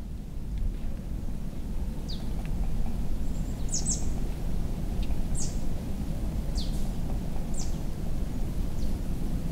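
Small birds giving short, high chirps, one or two at a time, roughly once a second, over a steady low rumble.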